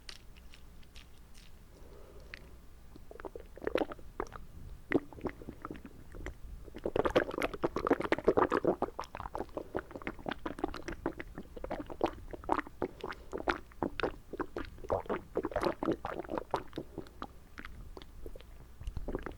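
Wet mouth sounds close to the microphone: many small clicks, smacks and squelches of saliva or water in the mouth. They start sparse about three seconds in and are densest and loudest around seven to nine seconds in.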